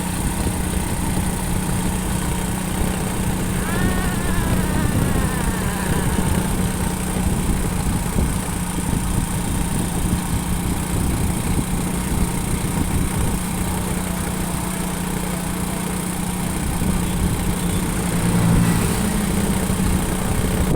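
Motorcycle engine running steadily while riding, under an even rush of road and wind noise.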